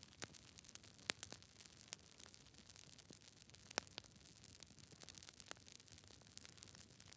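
Wood campfire crackling: a soft steady hiss with irregular sharp pops and snaps, the loudest about a second in and near four seconds.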